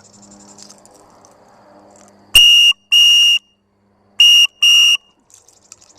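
Four short, loud, high-pitched electronic beeps in two pairs, the second pair about two seconds after the first.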